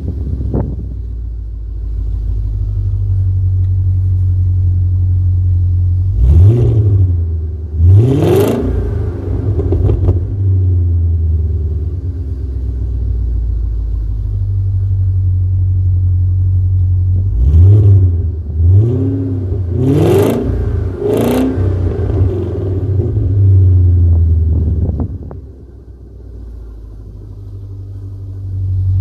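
Car exhaust fitted with straight-through 'stronger' resonators in place of the mufflers, idling with a deep steady drone and revved in short blips: twice about six to eight seconds in, then four quick blips between about 17 and 21 seconds. It quietens briefly near the end.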